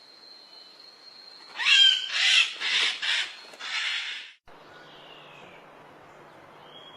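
A bird giving four or five loud, harsh screeching calls in quick succession. After an abrupt cut, a faint falling whistle follows.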